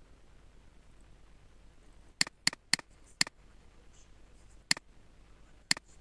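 Computer mouse button clicking six times: four quick clicks starting about two seconds in, then two single clicks about a second apart near the end.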